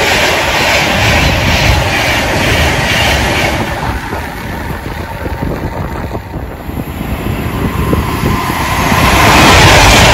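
A train passing through the station with a loud rush and rail clatter; the noise dies down in the middle and grows loud again near the end.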